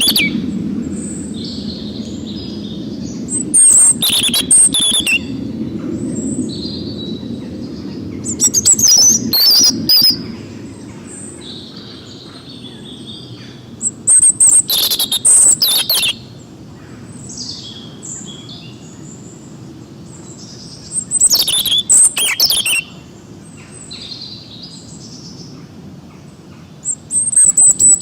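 Forest songbirds singing: one bird gives a loud, rapid burst of high song about every five to seven seconds, with fainter chirps from other birds in between, over a steady low background noise.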